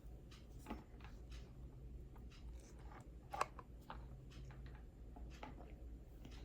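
Faint hand cross-stitching on 18-count fabric: the needle pierces the cloth and the thread is drawn through, heard as irregular soft ticks and rustles, with one sharper tick a little past the middle, over a low steady hum.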